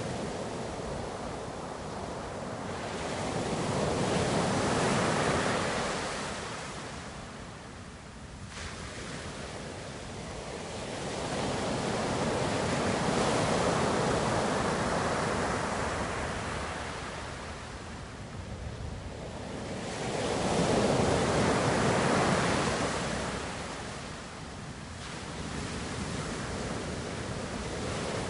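Ocean surf: waves breaking and washing in, the rushing noise swelling and ebbing three times, about every eight seconds.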